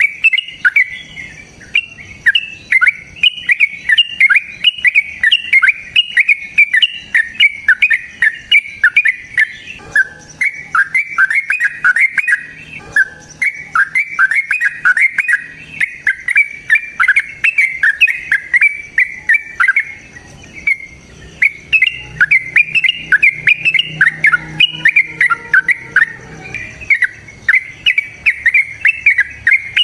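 Bird giving a long, rapid chattering song: a near-continuous string of sharp chirps, several a second, broken by a few brief pauses.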